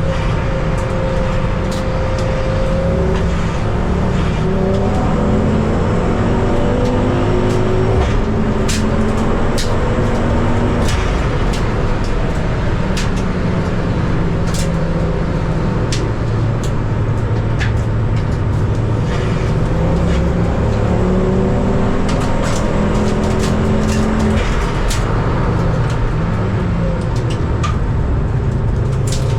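A pack of modified Ford race cars accelerating past together at a rolling race start, several engines running at once and rising and falling in pitch as they rev and change gear, with a scattering of sharp cracks.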